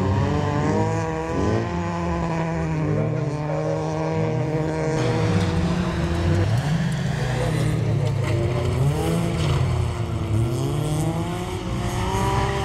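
Several folkrace cars' engines revving hard and overlapping, their pitch rising and dropping again and again through gear changes and lifts of the throttle.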